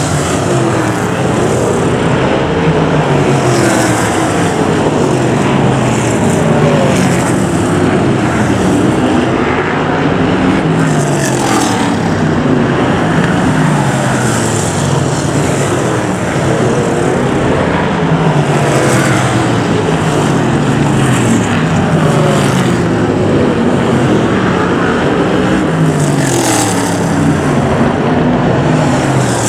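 Several BriSCA F1 stock cars' V8 engines running hard at once, their pitch rising and falling again and again as the cars accelerate and lift off around the track.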